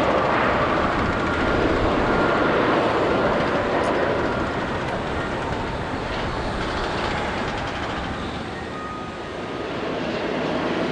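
Jet airliner engines running loud and steady, a broad rush with faint whining tones, easing slightly then swelling again near the end.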